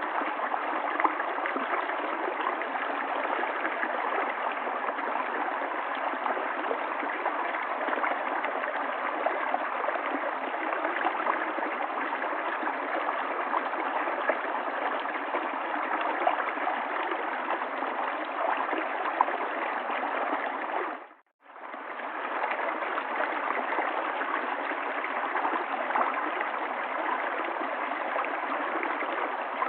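River water flowing and babbling over stones in a steady rush, with small splashes throughout. About two-thirds of the way through it fades out briefly to near silence and fades back in.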